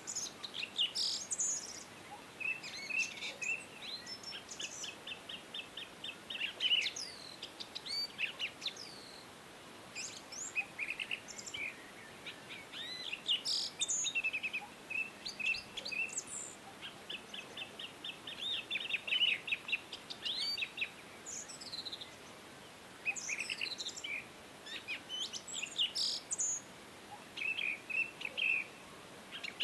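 Songbirds chirping and singing: short chirps and quick trills of rapid repeated notes, in phrases with brief pauses between them, over a faint steady hiss.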